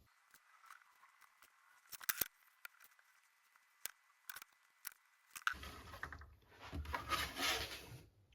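Handling of small wooden kit parts on a workbench: a few sharp clicks and taps, then a rougher scuffing and rustling from a bit past halfway.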